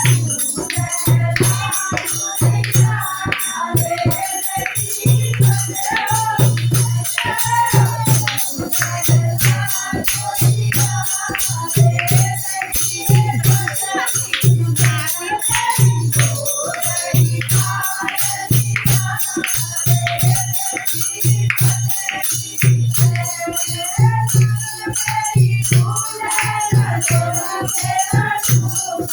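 Hindi devotional folk song (bhajan) being sung to a fast, steady beat of hand percussion with jingling rattles and shakers.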